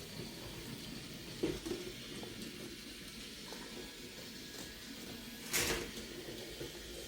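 Battery-powered toy trains running on a wooden track, with a steady whirring rattle, a couple of light clicks about a second and a half in and a sharper clack a little over five seconds in.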